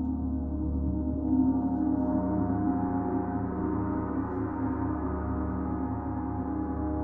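Gong played in a continuous, sustained wash of many overlapping tones, swelling slightly about a second and a half in.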